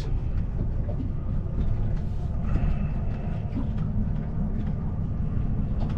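Boat engine running steadily, a low, even rumble.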